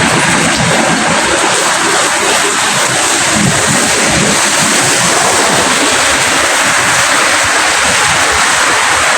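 Steady, heavy rainfall: a dense, even hiss of raindrops.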